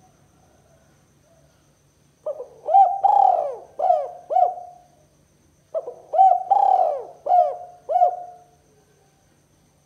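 Spotted dove (tekukur) cooing: two phrases of about five coo notes each, a little under a second apart.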